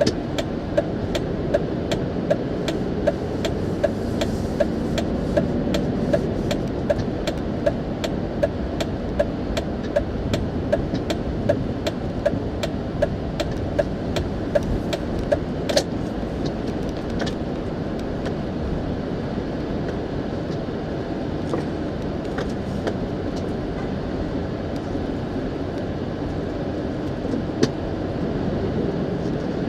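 Turn-signal indicator of a Ford Expedition ticking about twice a second, over steady road noise inside the moving car's cabin. The ticking stops about halfway through as the turn is completed, and the road noise goes on.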